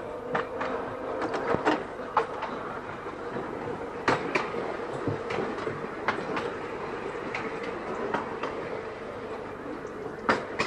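Seaton Tramway narrow-gauge electric tram running along the track: a steady whine over the running noise, with irregular clicks and knocks from the wheels over rail joints, a sharper one near the end.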